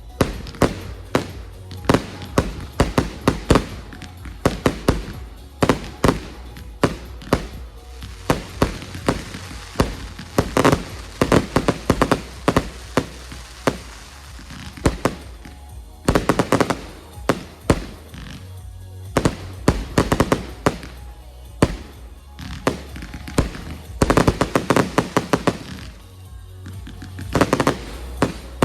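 Fireworks going off in rapid succession, dozens of sharp bangs and crackles coming in dense clusters, over music played as a pyromusical soundtrack.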